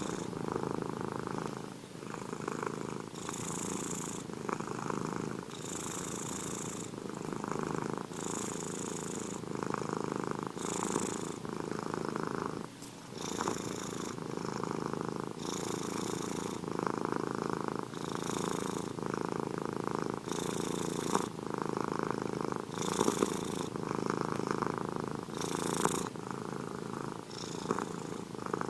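Domestic cat purring steadily and close up, the purr swelling and easing in a regular rhythm about every two and a half seconds, with a soft hiss at each swell.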